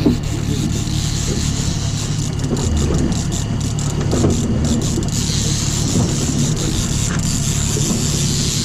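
Boat engine running steadily at trolling speed in gear, with a hiss over it that grows stronger about halfway through.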